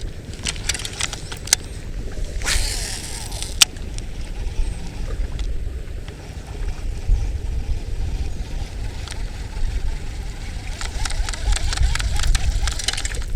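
Strong wind buffeting the microphone in a steady low rumble, with scattered sharp clicks and a brief rustling hiss about two and a half seconds in.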